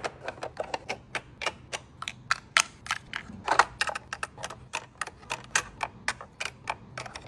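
Small plastic miniature food pieces clicking and tapping as they are set onto the shelves and into the door of a toy miniature fridge. The clicks are quick and irregular, several a second.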